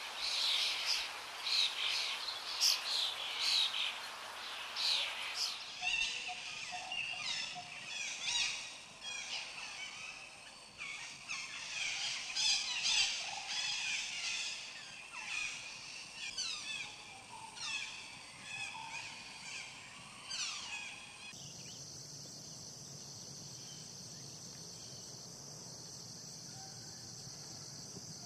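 Green conures calling in sharp, high chirping squawks, followed after about six seconds by a looser run of rapid high chirps in forest. About 21 seconds in, these give way to a steady, high insect drone.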